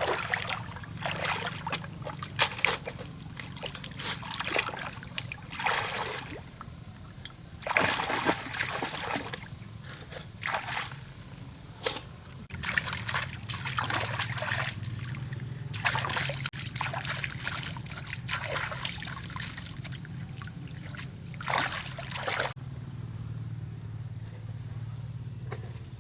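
Water splashing and trickling in irregular bursts, one splash after another, over a steady low hum.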